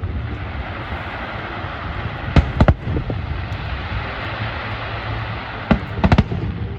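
Aerial fireworks going off: two sharp bangs close together a couple of seconds in, then a quick cluster of bangs near the end, over a steady hiss in between.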